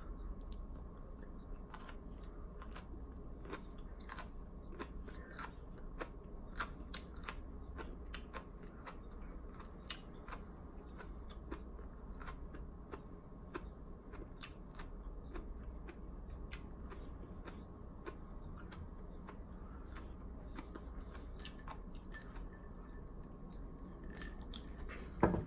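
A man chewing a mouthful of broccoli close to the microphone: soft, irregular mouth clicks over a low room hum. Near the end he takes a drink from a glass.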